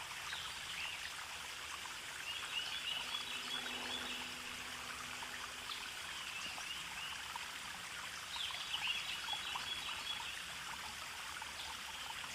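Stream water trickling steadily, with two short runs of quick high chirps over it.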